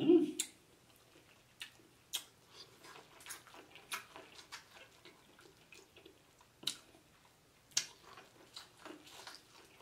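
Close-miked eating of corn on the cob: scattered crisp clicks and wet mouth smacks as kernels are bitten off and chewed, with a short louder mouth sound right at the start.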